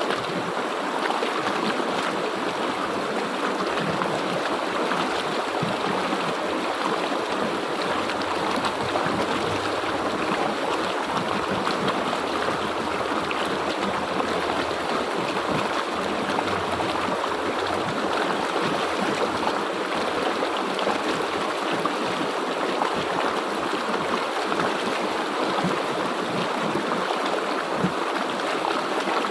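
Stream water flowing steadily over rocks, an even rushing burble without pauses.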